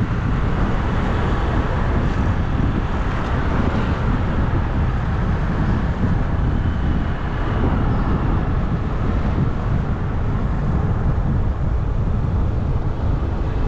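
Steady rush of wind and road noise on the microphone of a moving bike, even and unbroken throughout.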